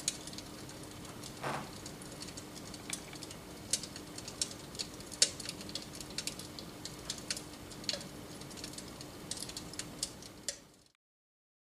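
Electric fireplace running, with irregular crackling clicks like burning logs over a steady low hum. The sound cuts off suddenly near the end.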